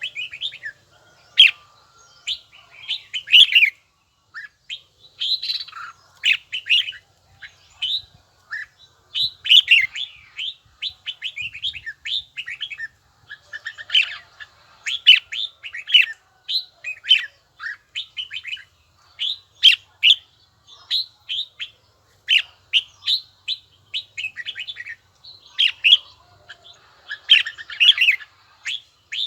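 Red-whiskered bulbul singing: a steady run of short, bright chirping phrases repeated with brief pauses, in the bell-like tone that keepers prize.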